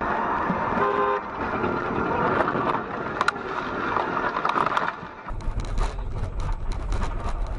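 Car horn sounding briefly, a short toot about a second in, over traffic noise. About five seconds in the sound changes to a low rumble of engine and road noise.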